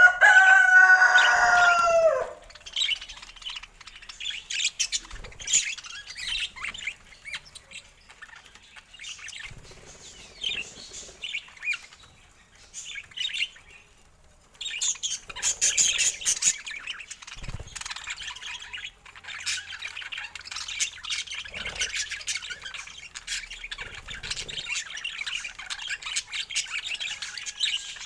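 Budgerigars chirping and chattering: a loud call with a slightly falling pitch for about two seconds at the start, then scattered high chirps, turning into dense, continuous warbling chatter about halfway through.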